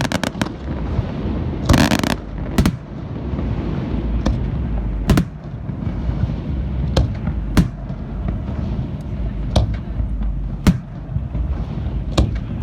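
Fireworks display: aerial shells bursting in about a dozen sharp bangs at irregular intervals, with a dense crackling cluster about two seconds in, over a steady low rumble.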